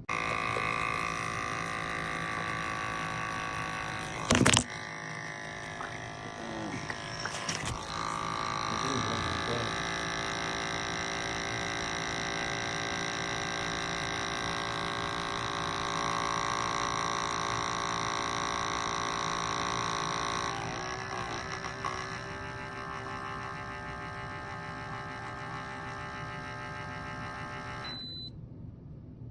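Espresso machine pump running steadily during a brew, a sustained hum with a sharp click about four seconds in. It stops abruptly near the end.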